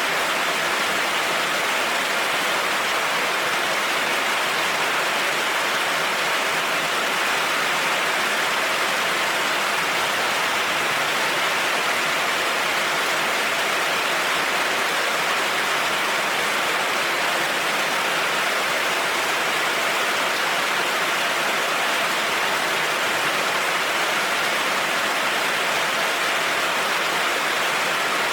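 Heavy rain falling steadily, an even, unbroken hiss that does not rise or fall.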